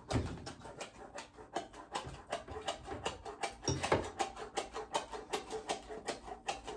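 Close-up eating sounds: wet chewing and mouth clicks from someone eating beef and gravy over rice, as a quick, irregular run of small clicks with a slightly louder one about four seconds in.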